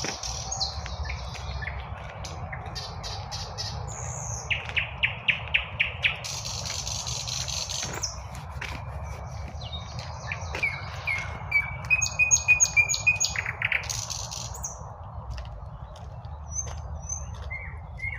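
Several songbirds singing at once: quick series of repeated high notes, short buzzy phrases and chirps overlapping one another, over a steady low rumble.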